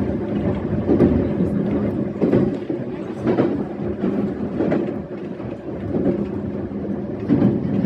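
E131 series electric train running at speed, heard from inside the front of the train: a steady motor hum over a rolling rumble, with the wheels knocking over rail joints about once a second.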